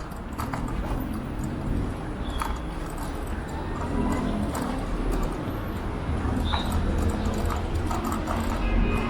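Ride noise from an electric scooter on the move: a steady low rumble of wind on the microphone and road noise, with irregular clicking and rattling knocks and a couple of brief high chirps.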